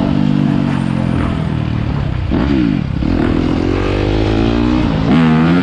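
Dirt bike engines running and revving, their pitch dipping and climbing back up twice.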